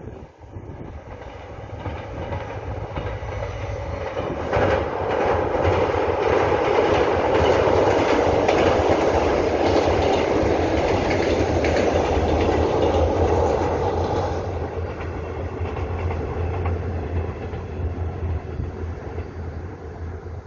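Korail Mugunghwa-ho passenger train, a diesel locomotive hauling passenger cars, crossing a steel girder railway bridge. Wheels clatter rapidly over the rails above the locomotive's low engine drone, growing loud as the train passes close and then fading as it moves away.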